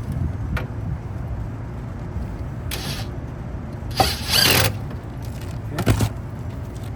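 Hand work on an air conditioner's capacitor and wiring: a few short clicks and scrapes over a steady low rumble. The loudest is a scrape of under a second about four seconds in.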